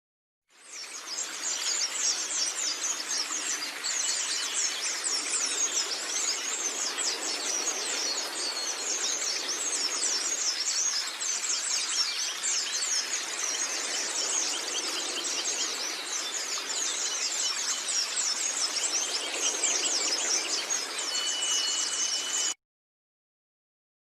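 White-eye (pleci) song: a dense, unbroken stream of very fast, high-pitched twittering notes, with a short steady whistle near the end. The song starts half a second in and cuts off abruptly about two seconds before the end.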